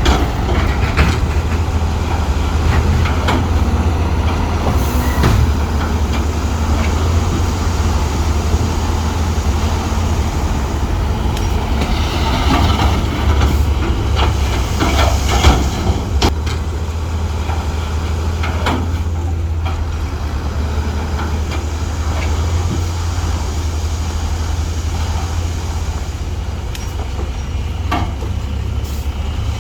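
Crawler bulldozer at work: a steady low diesel engine rumble with repeated metallic clanks and rattles from its tracks and the stone being pushed.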